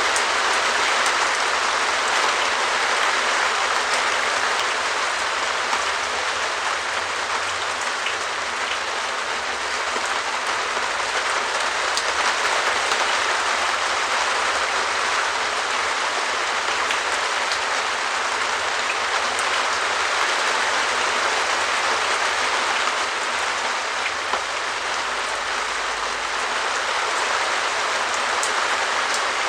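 Steady rain pattering on a translucent perspex shed roof, a dense, even patter of drops on the plastic sheet.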